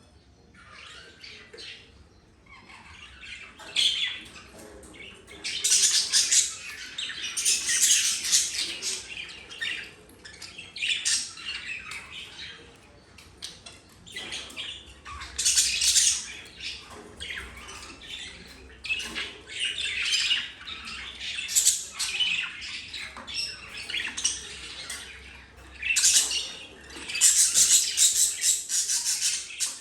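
Budgerigar squawking in repeated bursts lasting a few seconds each, loudest around the middle and near the end.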